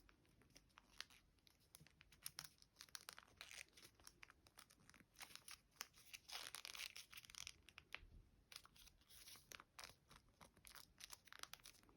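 Faint rustling and crinkling of a sheet of origami paper being folded and creased by hand, in quick light crackles with a longer rustle about six seconds in.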